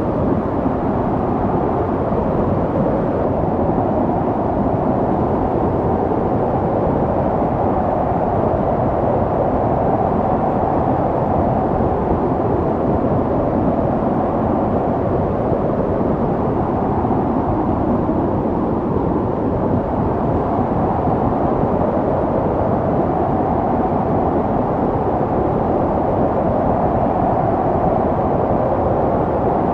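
Snowstorm wind blowing steadily, a low rushing noise with a hollow, wavering tone that slowly swells and fades every several seconds.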